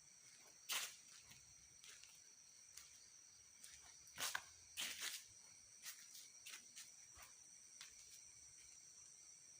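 Faint steady high-pitched chirring of crickets and other night insects, with a few short rustles or steps on the ground, the loudest about a second in and again around four to five seconds in.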